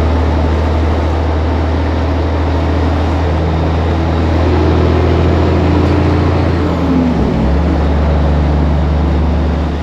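Semi truck's diesel engine heard from inside the cab, pulling steadily under load. There is a brief dip in the drone about seven seconds in, then it carries on.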